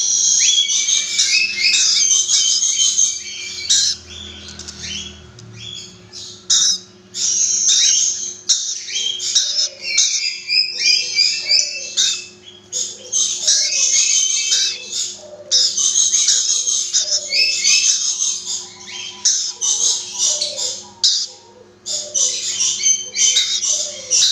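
Rainbow lorikeets chattering and squawking in shrill, rapid runs of calls lasting a few seconds each, with brief lulls between.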